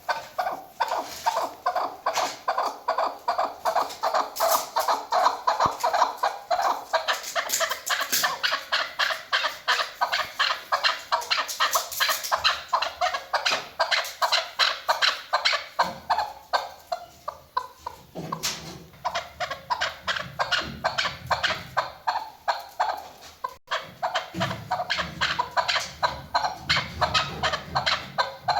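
Female chukar partridge calling: a fast, steady run of short clucking notes, about three a second, the kind of call hunters use to lure chukar.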